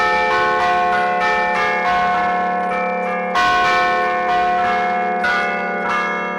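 Church bells struck by hammers worked from a keyboard ('a martellino'), playing a quick festive allegrezza tune: a run of overlapping ringing strikes, with one louder strike a little past halfway.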